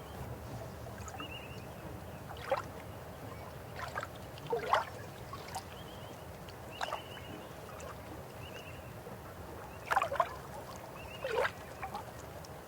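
River water running steadily, with short, sharp gurgles and plops breaking out every second or two, loudest about two and a half seconds in and twice near ten seconds.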